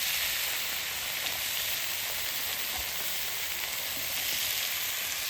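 Food frying in a pan: a steady sizzle with a few faint pops.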